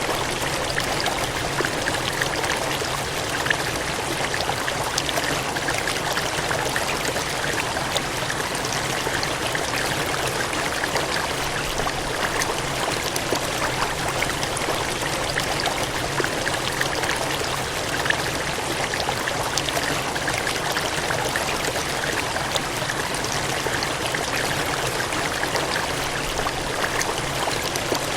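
Gushing water running in a steady, unbroken rush, with fine splashing throughout.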